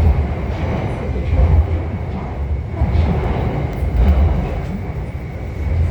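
Guangzhou Metro Line 8 train running between stations, heard from inside the carriage. It is a steady low rumble that swells every second or so, with a thin steady whine above it.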